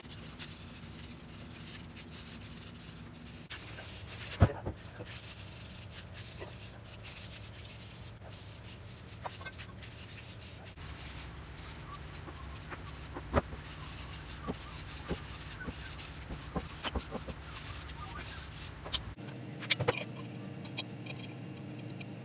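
Abrasive rubbing on metal parts during the hacksaw's restoration, with scattered clicks and knocks from the work, heard in a few separate takes.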